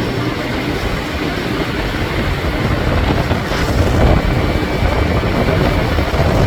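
A boat's motor running steadily, a dense low rumble that keeps on without a break.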